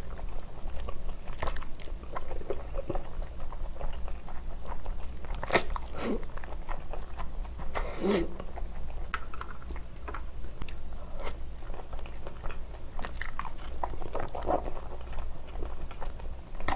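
Close-miked eating sounds: a person chewing and biting food, with irregular wet mouth clicks and a few louder bites scattered through, over a steady low hum.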